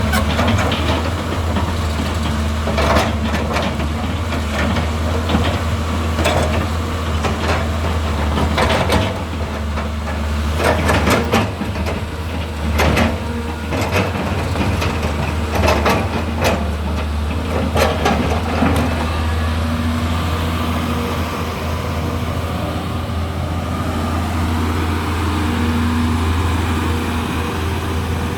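Hyundai Robex 215 L crawler excavator's diesel engine working with a steady low drone, with repeated knocks and clatter through the first two-thirds that give way to steadier running with a faint whine near the end.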